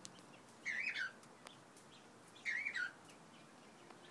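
Cockatiel calling twice, each call a short shrill whistle that wavers up and down in pitch, about two seconds apart.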